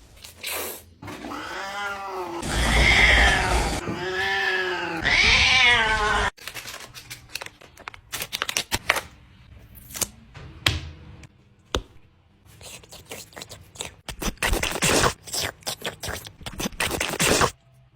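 A cat meowing in several long, drawn-out calls for a few seconds, followed by a long run of clicks and knocks.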